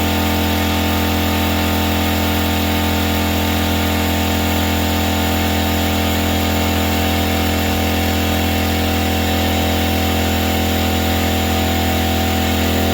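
Electric air compressor running steadily with a loud, even hum, feeding air to inflate a tire and seat its bead.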